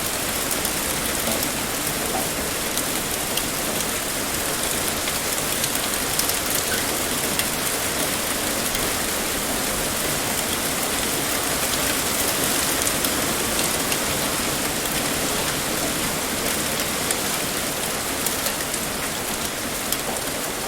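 Heavy rain pouring steadily onto a surface: a dense, even hiss of drops with fine individual ticks.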